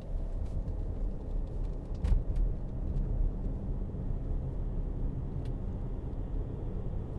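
Range Rover 3.6 TDV8 twin-turbo diesel V8 pulling under acceleration: a steady low engine and road rumble, with a single knock about two seconds in.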